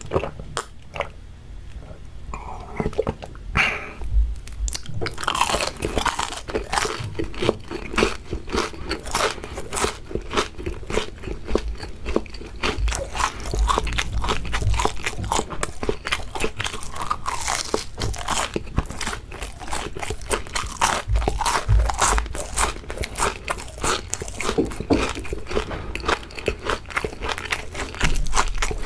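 Close-up crunching and chewing of crispy fried shrimp, bitten and chewed with the mouth near the microphone. A few sparse crunches at first, then dense, continuous crunching from about five seconds in.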